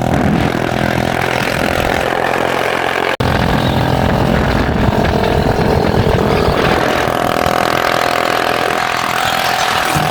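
Motorcycle engine running steadily, with a momentary dropout a little over three seconds in.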